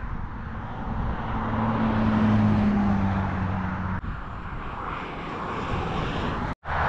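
Train in motion: a steady rushing and rumbling run-by noise with a low hum that fades out about four seconds in. The sound drops out abruptly for a moment near the end.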